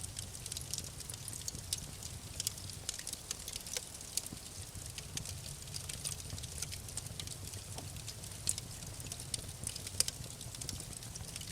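Wood fire crackling: frequent sharp pops and snaps over a steady low rumble of burning logs, with one louder pop about ten seconds in.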